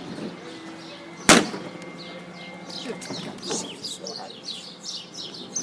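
A single sharp bang about a second in, then small birds chirping with short falling notes over a faint steady hum.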